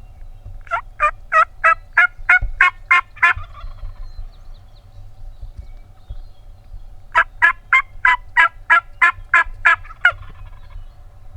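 Turkey yelping in two runs, about nine and then ten evenly spaced sharp notes at roughly three a second, with a few seconds' pause between the runs.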